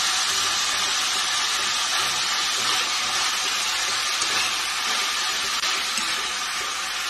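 Green beans sautéing in a hot stainless steel pan: a steady sizzle as they fry and are stirred.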